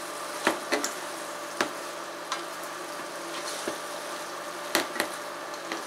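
Mushrooms sizzling in a stainless steel pot, a steady frying hiss, while a silicone spatula stirs them, knocking and scraping against the pot several times.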